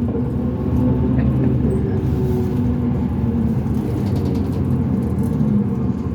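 2005 New Flyer D40LF transit bus with a Cummins ISL diesel and ZF six-speed automatic running under way, a steady low rumble with some faint steady tones in it.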